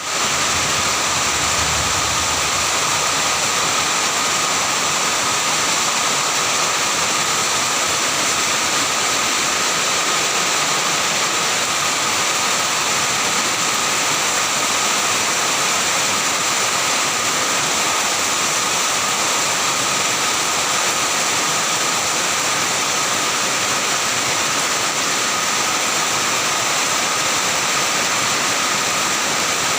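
Heavy downpour: a dense, steady rush of rain that does not let up.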